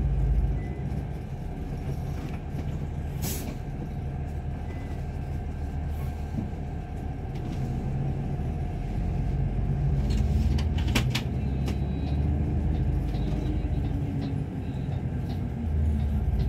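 Steady low rumble of a heavy vehicle engine, with a few sharp clicks or knocks, the loudest about three seconds and eleven seconds in.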